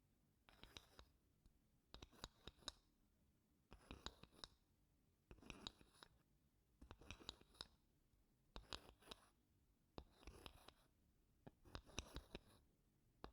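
Wooden spoon scraping softly across wooden blocks in slow, even strokes, about eight in all, one every second and a half. Each stroke is a brief scrape made of many fine clicks.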